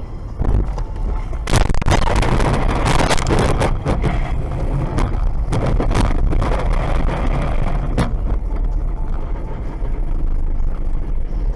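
A car on the road heard from a dash camera: a steady low rumble of engine and road noise. A loud, noisy stretch comes between about 1.5 and 4 seconds in, with several sharp knocks, the last about 8 seconds in.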